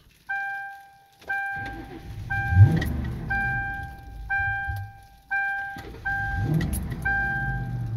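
Mercury Marauder's V8 running on E85 just after a cold start in freezing weather. The throttle is blipped twice to keep it from stalling, each blip a rising surge in engine pitch. Over it, a dashboard warning chime repeats a steady tone about once a second.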